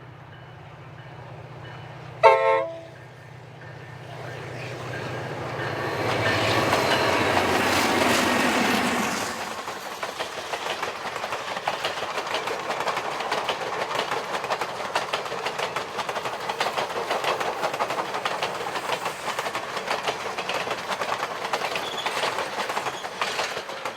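A train passing: a short horn or whistle blast about two seconds in, the locomotive growing louder to a peak around eight seconds, then steady, rapid clickety-clack of the cars' wheels over the rail joints.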